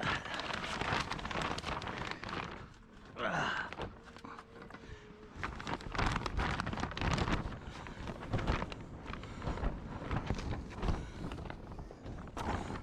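Gusty wind rumbling on the microphone, with irregular knocks and clatter throughout; a short sliding squeak about three seconds in.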